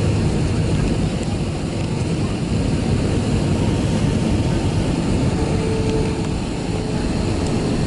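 Airbus A320-200 jet airliner heard from inside its passenger cabin: a steady roar of engines and rushing air.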